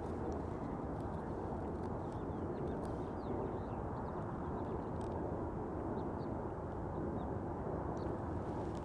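Steady low outdoor background rumble, with faint, scattered high bird chirps over it.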